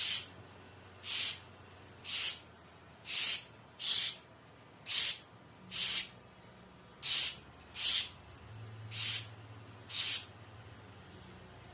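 A pet bird giving a series of short, harsh hissing calls, about one a second, eleven in all.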